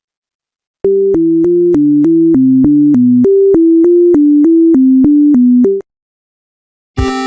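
Synthesizer melody of short, evenly spaced notes, about three a second, in two phrases that each step downward, stopping abruptly; a fuller electronic chord begins near the end.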